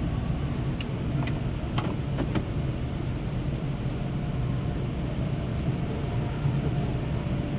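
Dodge Grand Caravan minivan heard from inside the cabin, its engine and road noise making a steady low hum as it drives off, with a few short clicks about one to two seconds in.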